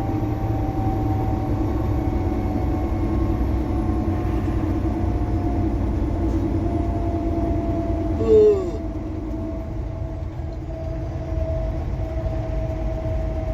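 Steady low rumble of a semi truck cab on the road, with a faint steady whine running through it. A little past eight seconds in, a short, loud sound falls in pitch and lasts under half a second.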